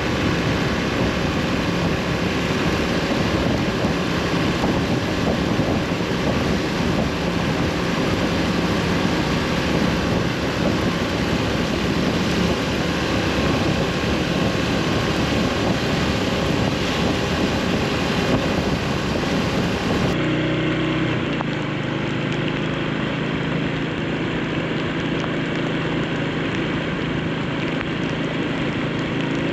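Yamaha SR400's air-cooled single-cylinder engine running while riding at speed, under heavy wind noise on the microphone. About two-thirds of the way through, the wind hiss drops away sharply and a steadier, clearer engine note remains.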